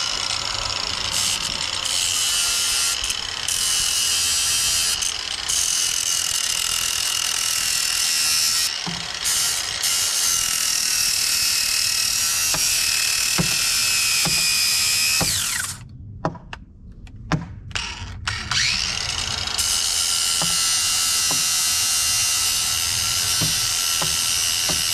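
Cordless angle grinder grinding down a steel bracket, running with a steady high whine. About 15 seconds in it winds down, a few sharp knocks follow, and about 18 seconds in it spins back up and carries on grinding.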